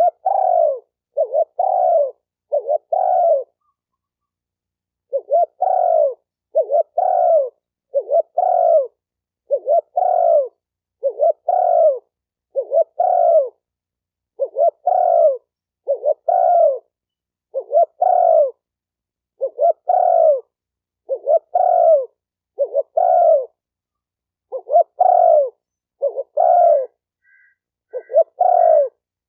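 Spotted dove cooing: short, low coo notes repeated in quick runs, about one a second, with a brief pause a few seconds in.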